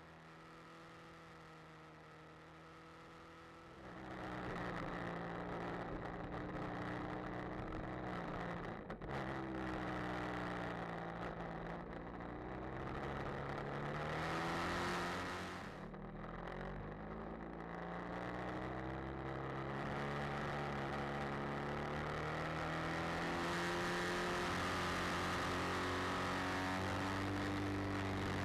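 BMW F800R motorcycle's parallel-twin engine under way, its pitch rising and falling with throttle through the bends. It is quieter and steadier for the first few seconds, then louder from about four seconds in.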